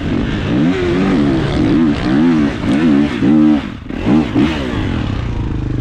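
Dirt bike engine revving up and down over and over, its pitch rising and falling about twice a second, then settling into a steadier, lower run near the end.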